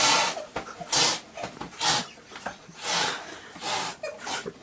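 A pet's breathy snorts or huffs, five of them, about one a second.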